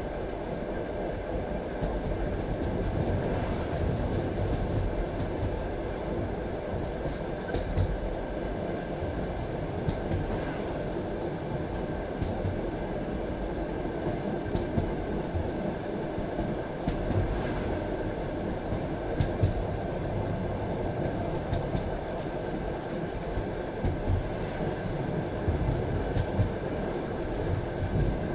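Passenger railway carriage rolling along the track: a steady rumble of wheels on rail with occasional irregular knocks over rail joints and a faint steady high tone above it.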